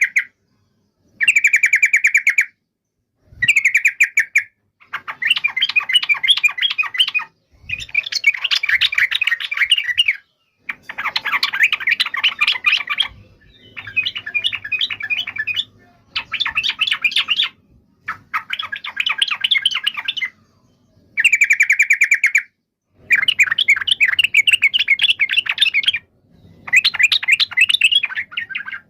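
Sooty-headed bulbul (trucukan) singing a run of about eleven short song phrases, each one to three seconds long, separated by brief silent gaps.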